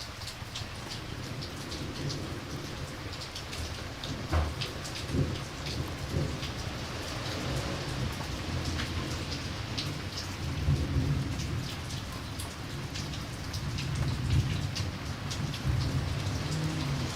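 Steady rain falling, with low rolling thunder that swells and fades several times, and scattered sharp crackles and pops of a campfire.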